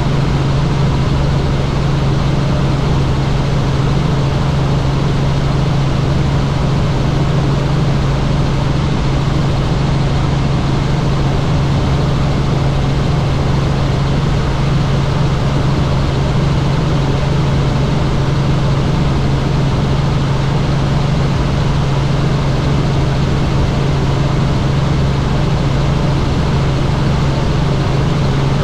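Helicopter in flight: a loud, steady drone of rotor and engine, a constant low hum over even rushing noise, unchanging throughout.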